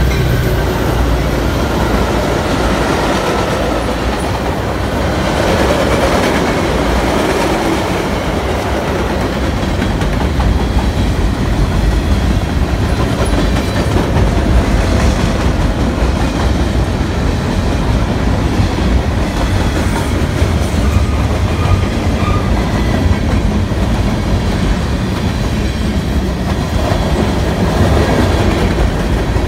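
Cars of a BNSF manifest freight train, tank cars and hoppers, rolling past on the adjacent track: a steady rumble of steel wheels on the rails.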